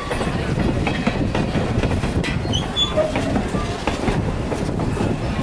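Railway carriage running along the track: a steady rumble with a clatter of wheels and couplings.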